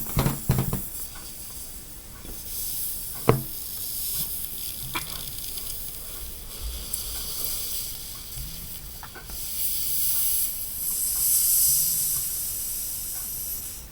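Breath being blown by mouth into a long rubber jet balloon: long hissing exhalations of air that swell and fade, with a sharp click about three seconds in.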